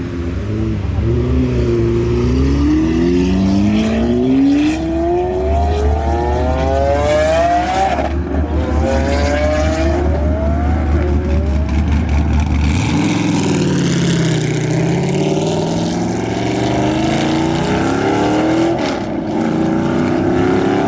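A car accelerating hard, its engine revving up through the gears: the pitch climbs, breaks off at each shift and climbs again several times. About halfway through, an engine note falls and then rises again.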